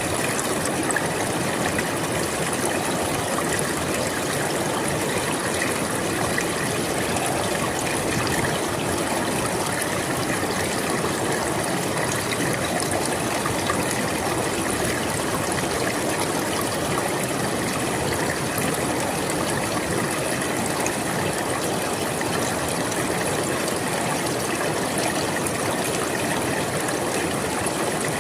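A river flowing steadily over rocks: an even rush of moving water with a light trickle.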